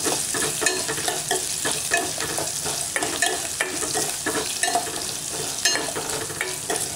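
Garlic cloves, dried red chillies and curry leaves sizzling steadily in hot oil in a stainless steel pot. A steel spoon stirs and scrapes them, clinking against the pot again and again. This is the garlic being sautéed in the tempering.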